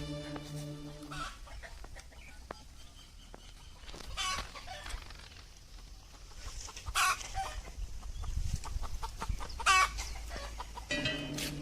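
Chicken clucking: a few short, separate calls with quieter scratchy sounds between them, as background music fades out and then returns near the end.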